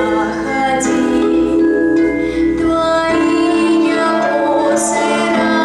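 A woman singing a song with long held notes over instrumental accompaniment.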